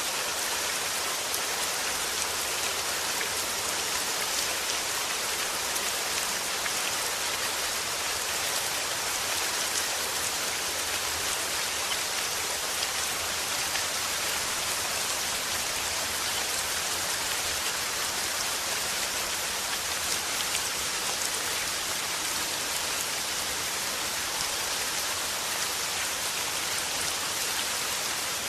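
Steady rain falling, a constant even hiss of drops pattering on a surface.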